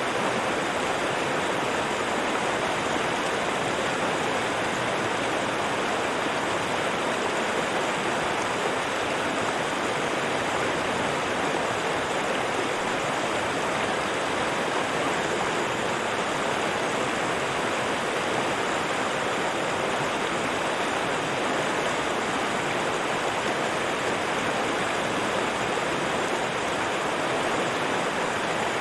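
River water flowing and rushing over rocks, a steady even splashing with no breaks.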